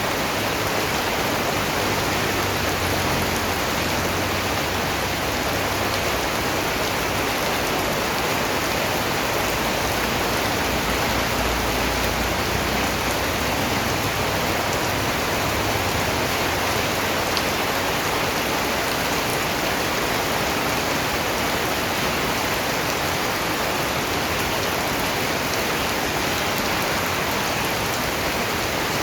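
Steady rain falling, a dense even hiss of raindrops with no breaks or distinct events.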